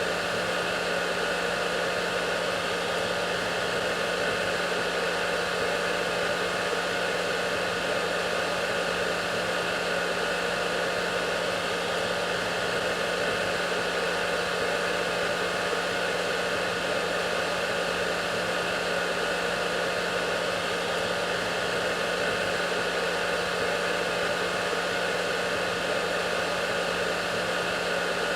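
Hair dryer running steadily: an even rushing of air over a constant motor hum, with no change in speed or pitch.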